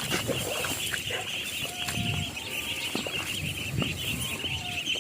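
Free-range chickens and ducks clucking and calling softly, with scattered small clicks, over a steady high buzz.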